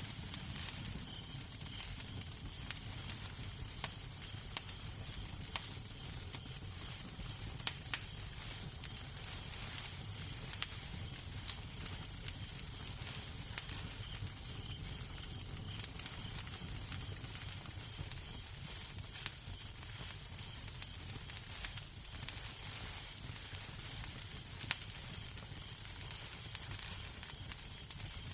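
Wood fire burning in a fireplace: a steady hiss and low rumble with frequent sharp crackles and pops scattered irregularly throughout.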